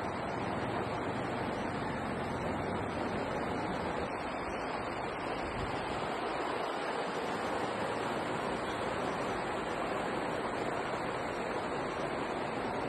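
Floodwater of the swollen Darpana Tirtha river rushing, a steady, unbroken rush of water.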